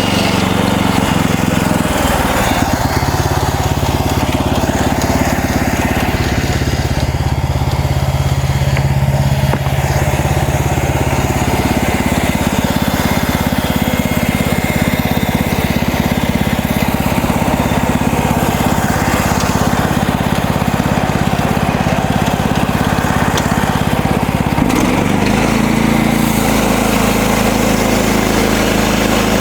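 Gasoline engine of a MechMaxx band sawmill running. Its sound turns lower and rougher about two seconds in and changes back near the end.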